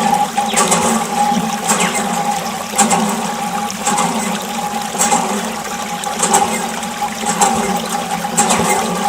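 Water gushing and splashing, with a steady hum from a small electric water pump motor running.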